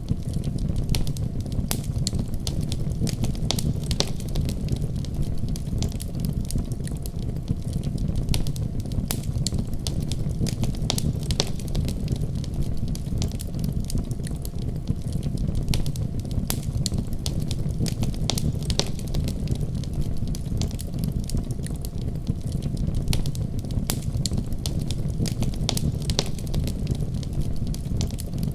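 Fire crackling, with frequent small sharp pops and snaps over a steady low rumble of flames.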